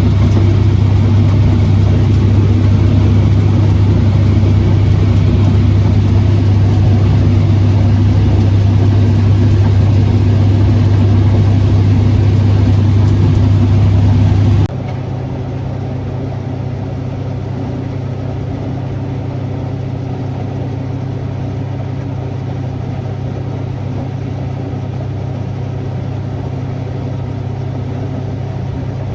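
Farm machinery engine running steadily at a constant pitch. About halfway through it cuts off abruptly to a different, quieter engine drone with a slightly higher hum.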